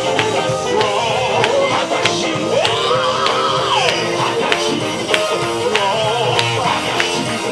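Live gospel band playing, with a steady drum beat under a sliding, bending melody line.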